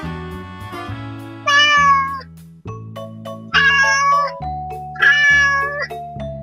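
A cat meowing three times, each meow under a second long, over background music.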